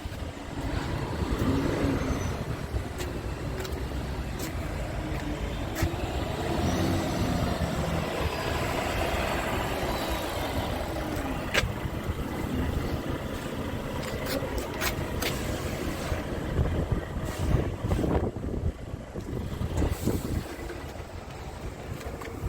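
Scania G450 truck's diesel engine running steadily, with a low rumble and a few sharp clicks or rattles.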